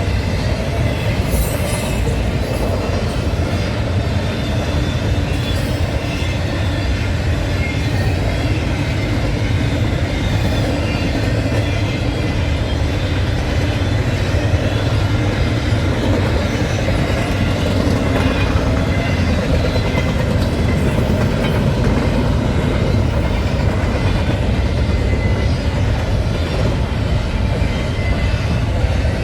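Freight train rolling past at trackside: a steady rumble of wheels and cars on the rails.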